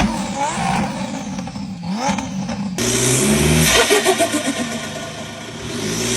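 Car engines revving, in two clips joined by a sudden cut about three seconds in: first engine notes rising and falling, then a different, louder engine sound with stepping pitch.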